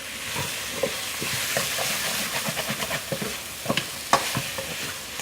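Pork sizzling as it is stir-fried in hot oil, with a utensil scraping and knocking against the pan now and then, the sharpest knock about four seconds in.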